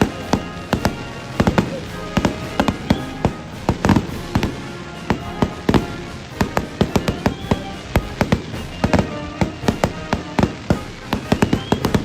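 Fireworks display: many sharp bangs and crackles in quick, irregular succession, thickest in the second half, over music.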